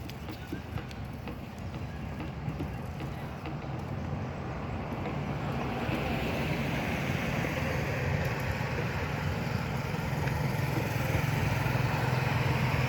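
A motor vehicle's engine running, growing gradually louder.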